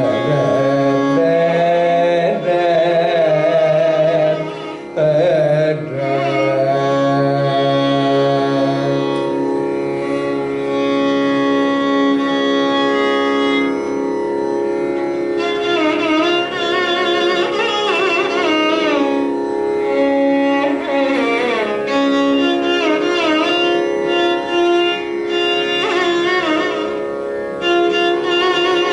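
Carnatic music: a male voice with violin, singing ornamented, gliding phrases over a steady drone.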